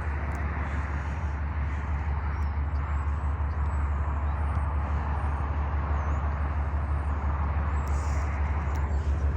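Steady outdoor ambience: a constant low rumble with an even hiss and no distinct events.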